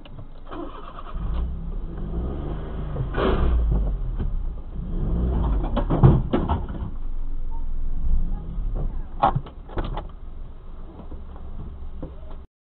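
Car engine idling with a steady low rumble, with several sharp clicks and knocks over it, the loudest about six seconds in.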